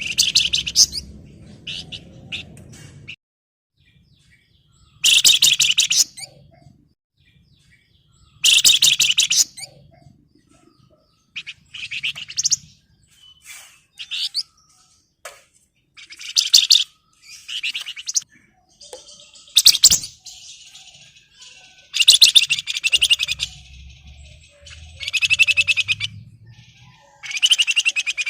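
Flamboyan (wergan Jawa) songbird giving loud, rapid chattering calls, each burst about a second long and repeated every two to three seconds. These are the excited calls of a bird in breeding condition, used as a lure to draw out a rival.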